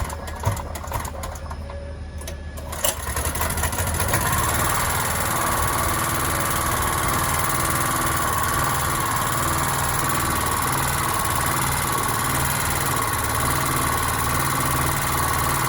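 Fireman SPG 3000 portable generator's petrol engine starting about three seconds in, then running steadily, with a steady whine over the engine note. It is running on freshly replaced engine mountings.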